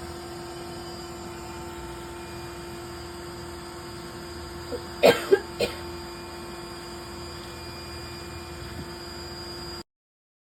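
A person coughs three or four times, sharply, about halfway through, over a steady hum; the sound cuts off abruptly near the end.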